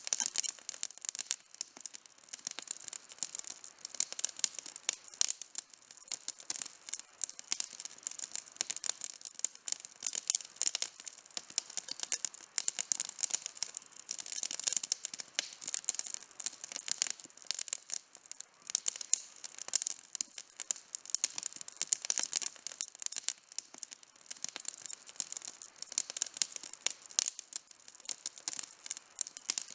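Outdoor wood campfire burning, with dense, continuous crackling: many quick sharp clicks and snaps of varying loudness.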